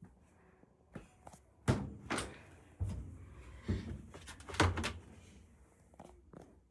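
A series of about seven knocks and thuds, irregularly spaced, like a door or lid being handled and bumped shut.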